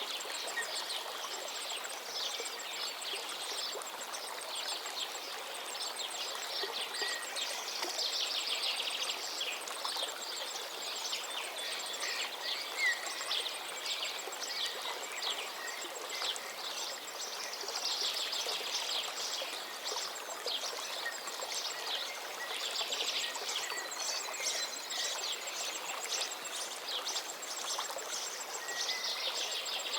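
Forest river flowing steadily, with many birds singing over the rush of water.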